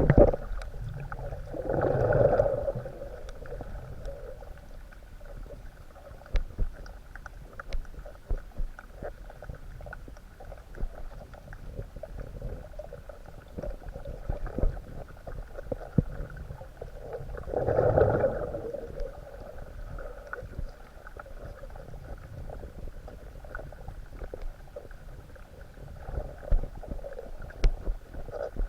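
Underwater ambience picked up by a camera on a coral reef: a steady low rumble with scattered small clicks, and two louder whooshing swells, each about a second long, one near the start and one past the middle.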